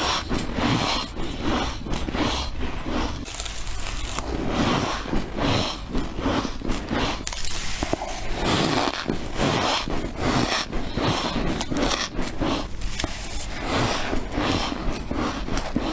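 A person biting and chewing freezer frost: a continuous run of crisp crunches.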